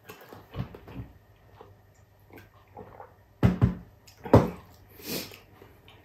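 Close-up mouth noises of a man eating rice and beef by hand: wet chewing and lip smacks, with a few sharper smacks a little past the middle and a softer breathy sound near the end.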